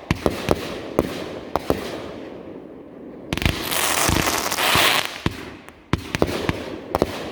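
Fireworks going off: a run of sharp bangs and pops, with a louder rush of hiss between about three and five seconds in.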